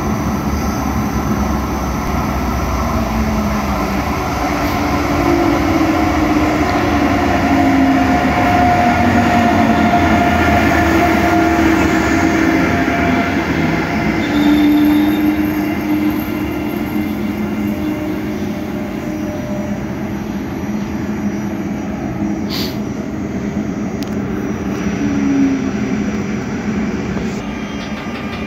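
Koleje Mazowieckie double-deck push-pull train rolling slowly along the station track: coaches rumbling over the rails with wavering squeal tones from the wheels, and one sharp clack about two-thirds of the way through, as the EU47 electric locomotive pushing at the rear comes past near the end.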